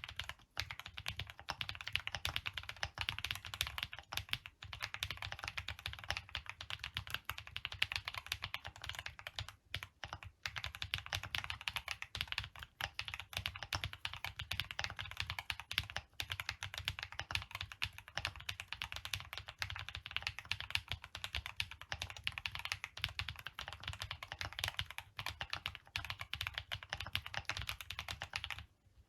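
Keystrokes on a custom keyboard typed quickly and continuously, a dense patter of key clicks and bottom-outs, with a short pause about ten seconds in.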